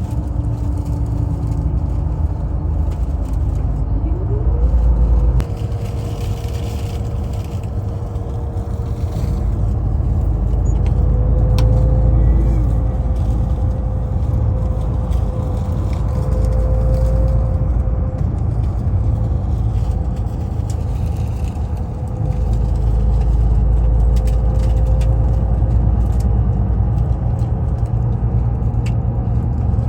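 Tour bus engine and road noise heard from inside the cabin, a steady low rumble. About four seconds in, the engine's pitch rises as the bus picks up speed, then holds steady.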